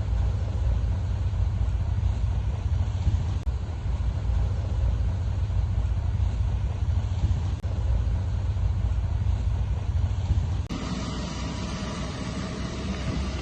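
Heavy earthmoving machinery's diesel engine running with a steady low rumble. The sound changes abruptly a few times, brightening with more rattle and hiss about eleven seconds in.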